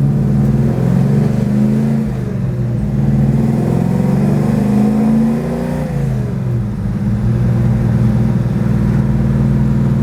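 Chevelle wagon's 427 big-block V8 running under way: the engine note climbs steadily for a few seconds as it accelerates, falls away about six seconds in as the throttle is lifted, then holds steady.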